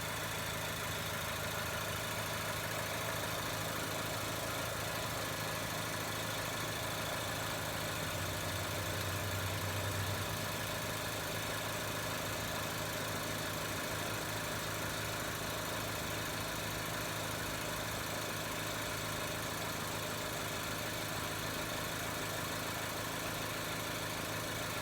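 Mazda 3's Skyactiv-G 2.0-litre four-cylinder petrol engine idling steadily, swelling slightly for a couple of seconds about eight seconds in.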